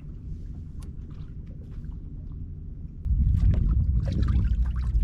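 A kayak on open water: a steady low rumble with small water splashes and ticks against the hull, the rumble jumping suddenly louder about three seconds in.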